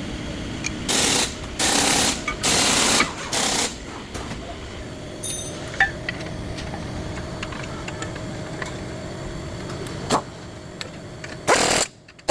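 Impact wrench run in four short bursts in quick succession, then a low steady hum with a few light clicks and one more short burst near the end, typical of loosening or running down wheel or caliper bolts during a brake job.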